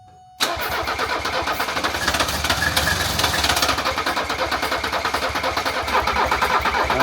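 Starter motor cranking a Mercedes OM617 turbo five-cylinder diesel, kicking in suddenly about half a second in and turning the engine over in a fast, even rhythm without it catching. The crew suspect the injection pump timing or the fuel shut-off is starving it of fuel.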